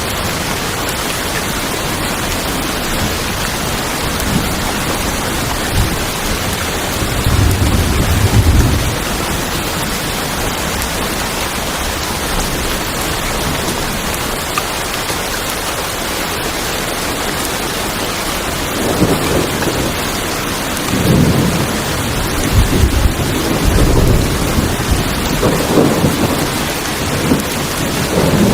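Heavy rain falling on a tin roof, a steady even hiss, with thunder rumbling low about seven seconds in and again in several rolls through the last ten seconds.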